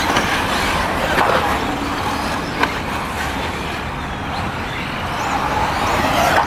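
Electric RC buggies racing, their motors whining faintly up and down over a steady rushing noise, with one short click partway through.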